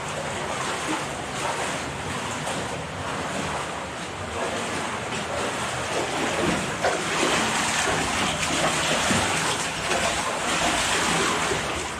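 Steady rushing of water in a cave stream passage, growing louder about halfway through.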